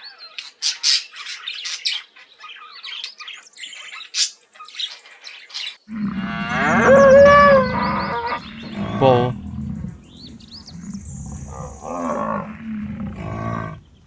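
Budgerigars chattering in quick high chirps and warbles. About six seconds in, this gives way to a bull bellowing in deep, drawn-out calls, the loudest one rising and then held.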